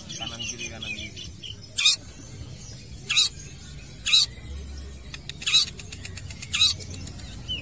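Long-tailed shrike (cendet) singing energetically: five short, harsh, loud calls about a second apart, with fainter high twittering between them.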